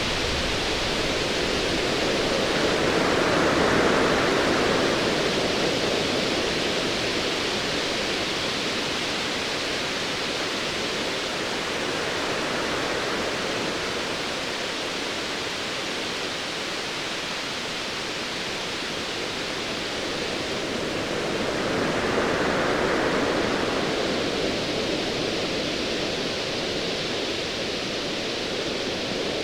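Ocean waves on a dark sea, a continuous wash of surf that swells up and ebbs slowly, once about four seconds in and again a little past twenty seconds.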